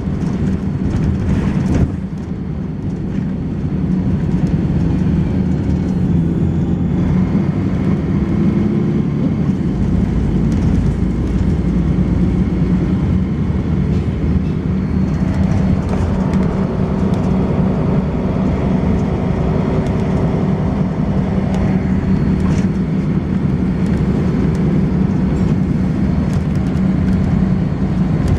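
Volvo B10BLE single-deck bus's diesel engine and ZF automatic gearbox running steadily under way, its note changing about ten seconds in and again about sixteen seconds in.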